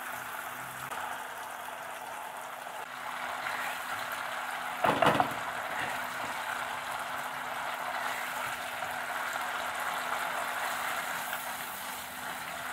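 Ground chili paste with tomato and oyster sauce sizzling and bubbling in a non-stick wok as it is stirred with a spatula, with one short loud clatter of the spatula against the pan about five seconds in.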